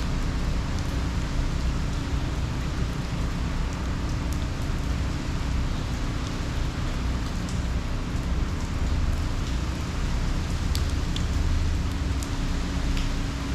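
Steady hurricane rain falling, with a low steady rumble underneath and scattered ticks of drops.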